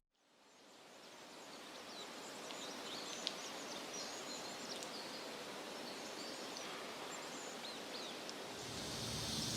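Outdoor nature ambience fading in from silence: a steady hiss with scattered short bird chirps. Near the end a steady high buzz, like insects, joins in.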